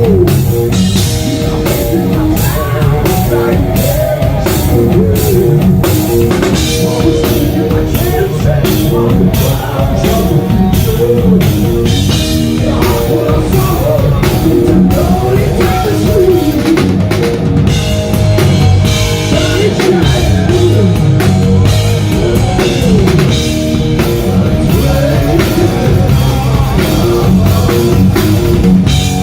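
Live hard rock band playing: drum kit, electric guitar and bass, with singing.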